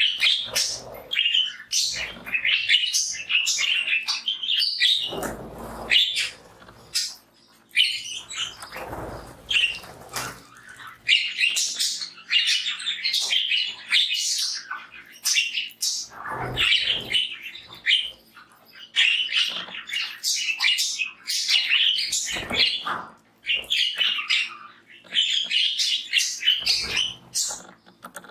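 A flock of pet budgies chattering and chirping without a break, with about five short noisy sounds among the chirps.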